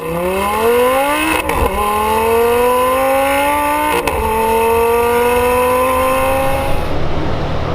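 High-performance sports car engine accelerating hard: its pitch climbs through the revs and drops at two quick upshifts, each marked by a sharp crack. The engine note fades away near the end as the car pulls off.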